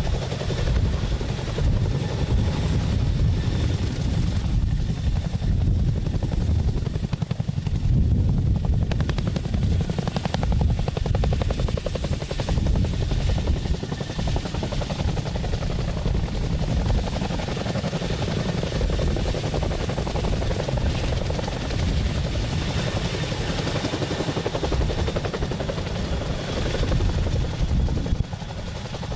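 CH-47F Chinook tandem-rotor helicopter running on GE T408 turboshaft engines: a steady, dense beat of rotor blades with a steady high whine above it.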